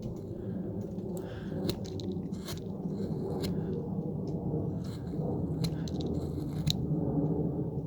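Hand carving tool cutting and scraping into wood: a scatter of short, sharp cuts and scrapes, over a steady low rumble.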